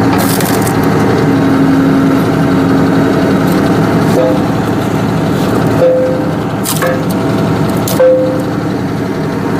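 Tractor engine running steadily while it drives a hydraulic log splitter. A handful of sharp cracks and knocks of wood come through at irregular intervals.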